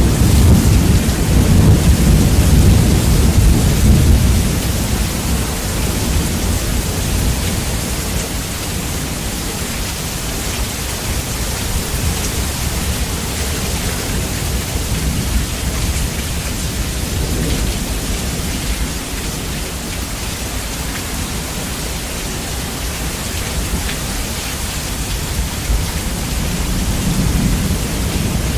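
Steady rain with thunder, bass-boosted so the low end is heavy. A rumble of thunder sits under the rain for the first few seconds and then fades, leaving the rain's even hiss.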